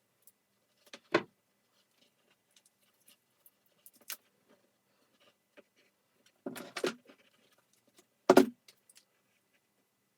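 Vacuum cleaner parts being handled during disassembly: a few short knocks and clatters, one about a second in, one near four seconds, a cluster around six and a half to seven seconds, and the loudest near eight and a half seconds.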